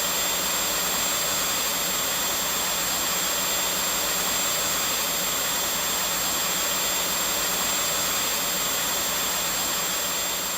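Vacuum cleaner running steadily: an even rushing noise with a thin, high, steady whine.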